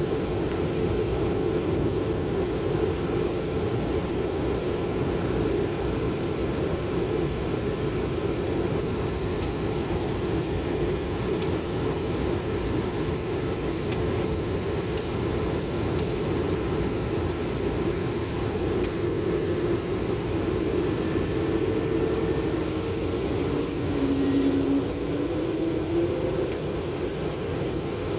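Airliner cabin noise in flight: a steady drone of engines and airflow, with a thin, steady high-pitched tone above it.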